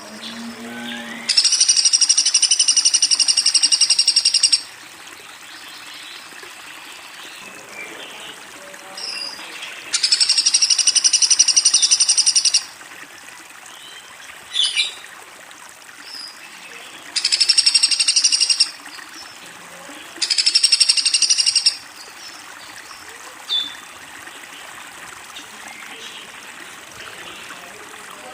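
Woodpecker sounds: four long, very fast rattles, the first two about three seconds each and the last two shorter, with a few short chirps between them, over a faint steady hiss.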